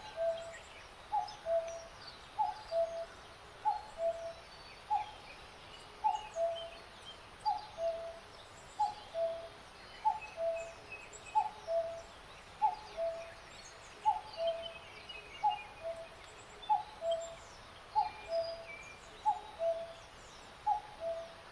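A bird calling a two-note phrase over and over, a short higher note dropping to a lower one, about once a second, with fainter chirps of small birds in the background.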